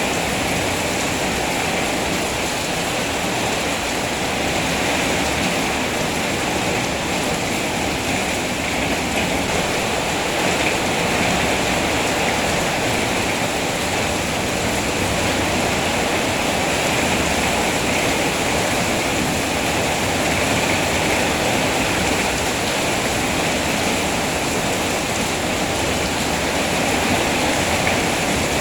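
Steady heavy rain, an even rushing hiss with no individual drops standing out.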